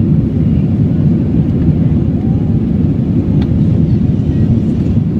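Airbus A320 cabin noise heard from a rear-row seat: a steady, loud, low roar of the jet engines and rushing air, with a single short click about three and a half seconds in.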